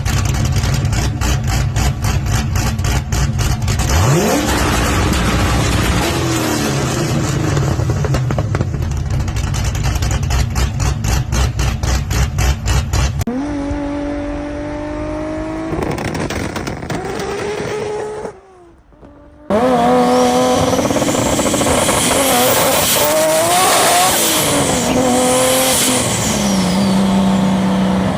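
Turbocharged cars running on anti-lag, in several short clips. For the first thirteen seconds, rapid, fast-repeating exhaust pops and bangs sound over the engine; after that, engines rev up and down, with a brief drop-out just before the last part.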